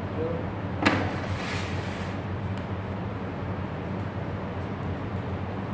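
A steady low mechanical hum, with one sharp clank about a second in followed by a brief hiss.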